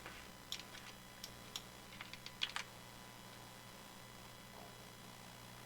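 Faint clicks of a computer keyboard, about ten scattered over the first two and a half seconds, then only a low steady hum.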